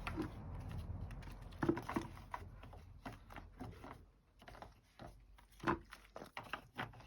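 A car engine's low running rumble fades away over the first few seconds, with scattered light knocks and clicks throughout; the loudest come about two seconds in and near six seconds.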